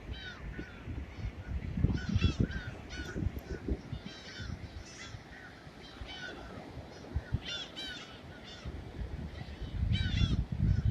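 Gulls calling in several quick series of short, arching cries, with a low uneven rumbling noise underneath that grows louder near the end.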